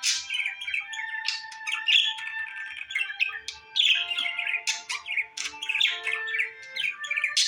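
Small caged pet birds chirping and chattering continuously, several quick calls and whistled notes overlapping.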